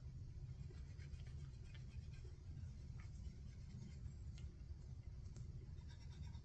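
Faint scratching and rubbing as an electronic control board is scrubbed clean with isopropyl alcohol, a series of light irregular scrapes over a steady low hum.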